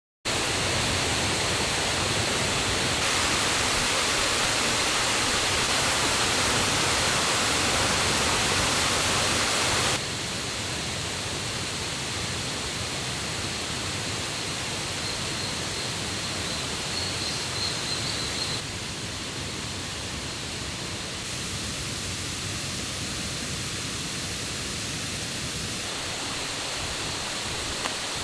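Forest waterfall and river rushing loudly in a steady roar of water, running high after the previous day's rain. The level drops suddenly about ten seconds in and again a little later.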